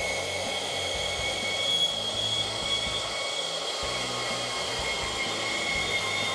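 Milwaukee M18 FUEL brushless cordless deep-cut band saw running steadily, its blade cutting through cast iron pipe with a steady high whine.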